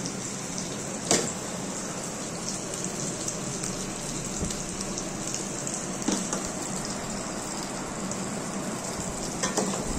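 Oil still sizzling in a steel kadai of scrambled egg, onion and tomato just after the heat is switched off: a steady hiss. A steel ladle knocks on the pan and the glass bowl about a second in, around six seconds and near the end.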